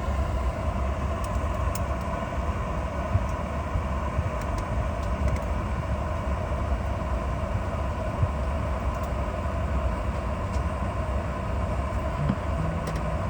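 Steady cabin drone inside a Boeing 717-200 before departure: a low rumble with a constant mechanical hum and a few faint clicks.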